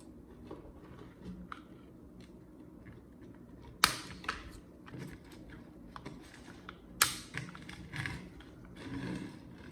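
Scattered small clicks and rustles of parts or tools being handled, with two sharp knocks about three seconds apart.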